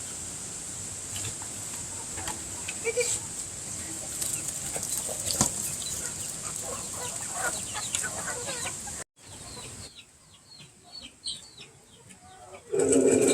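Chickens clucking and calling in a farmyard, with short high chirps after a sudden break about nine seconds in. Just before the end a much louder, steady mechanical drone starts.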